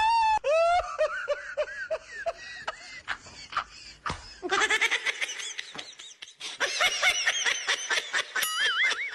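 High-pitched cackling laughter in quick repeated bursts, in two long runs.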